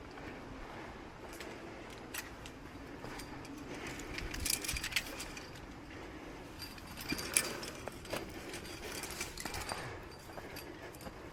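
Metal climbing gear, carabiners and quickdraws, clinking and jingling in irregular clusters, loudest a few seconds in and again about halfway through.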